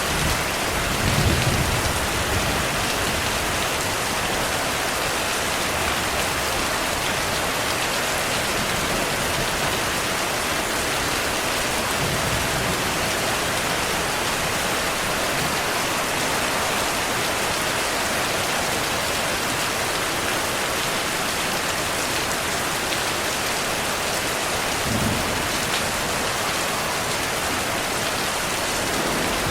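Steady heavy rain, with a brief low rumble of thunder about a second in and a fainter one near the end.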